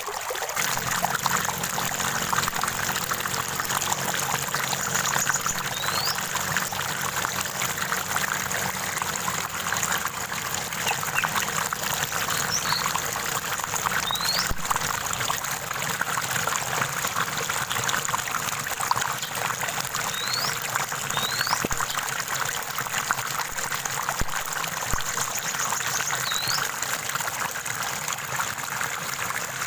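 Running water trickling and splashing steadily in a small stream, with a bird giving a short, rising chirp now and then, about six times.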